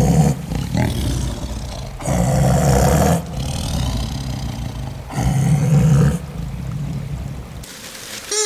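Three loud, deep animal calls, each about a second long and a few seconds apart, with quieter sound in between.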